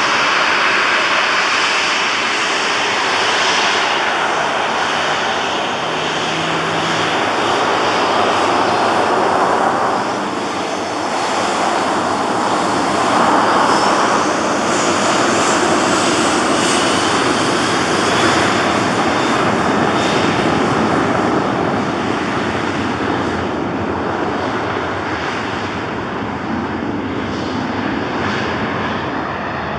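Jet engines of a departing Boeing 737 airliner, a loud steady rush of engine noise with a faint rising whine in the middle, easing slightly near the end.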